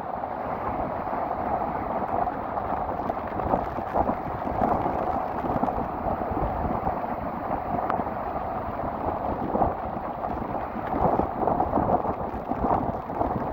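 Rough sea waves and strong wind gusting over the microphone in the rain: a dense, continuous rushing noise with irregular surges.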